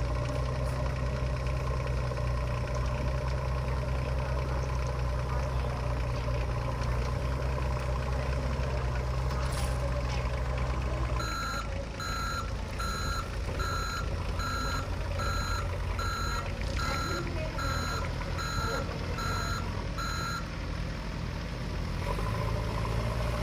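A steady low engine drone runs throughout. About halfway through, a vehicle reversing alarm starts beeping at a steady rate of a little over one beep a second, for about nine seconds, then stops.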